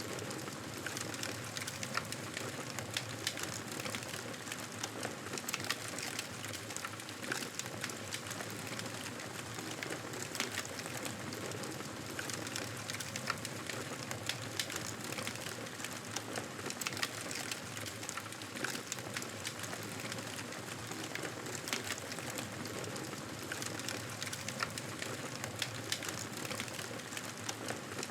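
Fireplace fire crackling: a steady hiss with frequent irregular small pops and snaps.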